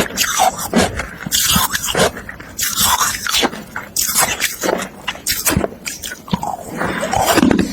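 Carbonated ice being bitten and chewed: a string of uneven, sharp crunches of the hard ice breaking between the teeth.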